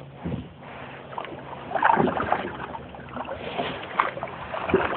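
Water lapping and splashing against a kayak, with a few irregular louder splashes.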